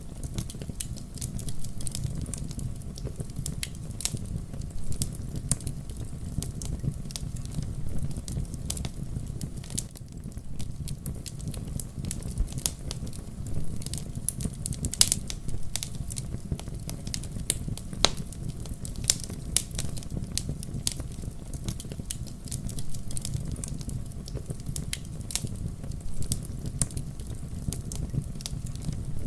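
Wood campfire burning, with a steady low rumble of flames and irregular sharp crackles and pops from the burning wood, one louder pop about halfway through.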